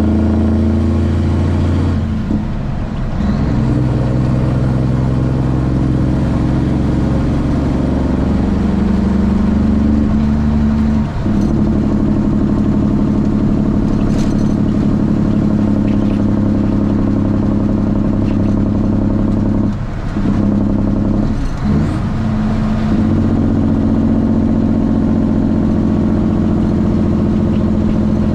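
Straight-piped Cummins ISX inline-six diesel of a Kenworth T800 truck running under load, a steady low drone. Its note dips briefly and changes pitch about four times, as the gears are shifted.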